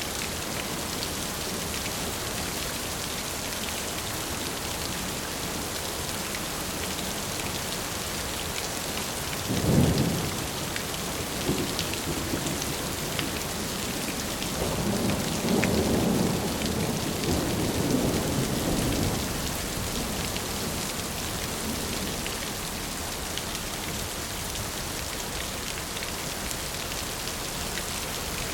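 Steady rain falling, with a sharp clap of thunder about ten seconds in and a longer rolling rumble of thunder a few seconds later.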